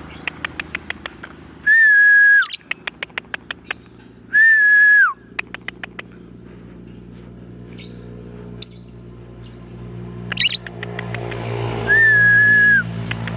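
Lovebird chattering in runs of rapid sharp chirps, about eight a second, broken by three loud, level whistled notes that drop in pitch at the end.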